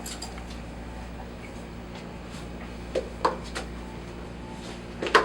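A few short knocks and a sharper clack near the end, from shoes being taken off and handled, over a steady low hum.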